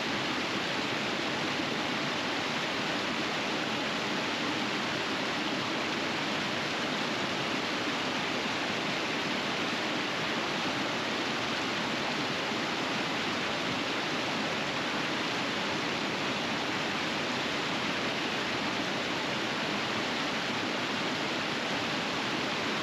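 Winter river rapids rushing steadily, an even hiss of fast water over rocks with no breaks.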